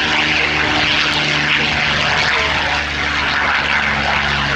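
Piston-engined propeller aircraft running steadily at a constant, even drone.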